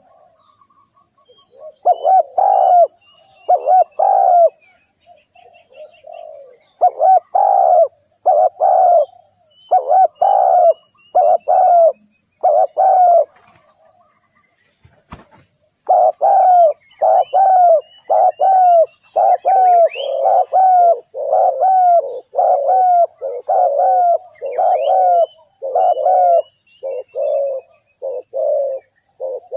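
Spotted dove cooing in repeated phrases of short coos, the call of a decoy bird for luring wild doves. It pauses about halfway through, then resumes in a long, quicker run. Faint chirps of small birds can be heard behind it.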